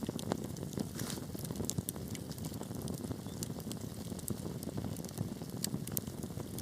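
Wood fire burning in a fireplace: a steady low rumble of flames with frequent sharp, irregular crackles and pops from the burning wood.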